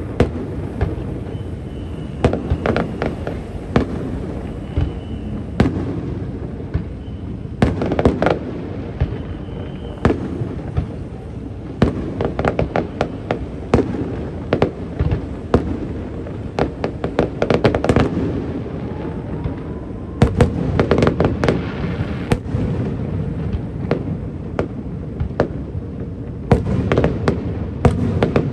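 Aerial fireworks display: volleys of sharp bangs and crackles that come in clusters every few seconds, over a steady low rumble.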